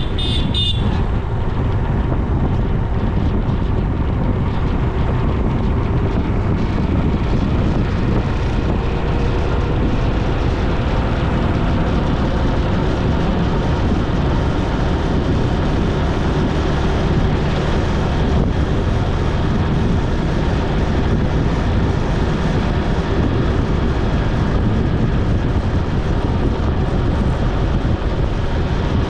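Steady noise of a vehicle riding along a road: a dense low rumble of wind and road noise with a faint engine hum that rises slightly partway through.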